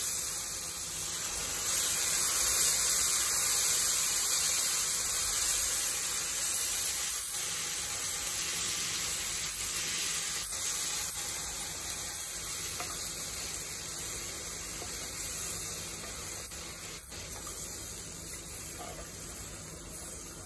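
Fried onion-tomato masala sizzling in hot oil in a kadai as water is added for the gravy. The sizzle slowly dies down, with a few light knocks of a wooden spatula.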